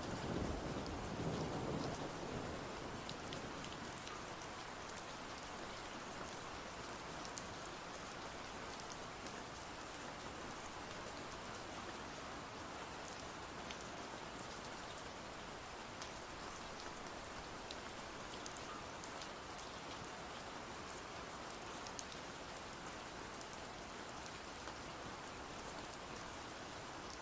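Steady rain falling, with a low rumble of thunder dying away in the first two or three seconds.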